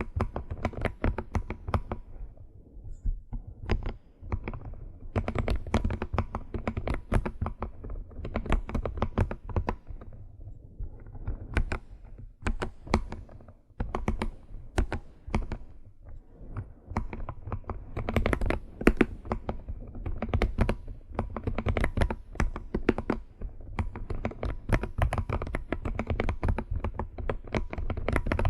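Computer keyboard being typed on, in fast, irregular runs of key clicks broken by short pauses.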